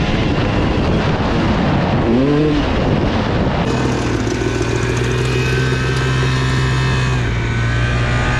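Motor vehicle engine running steadily under loud road and wind noise. About two seconds in the engine pitch briefly rises and falls, then holds an even tone.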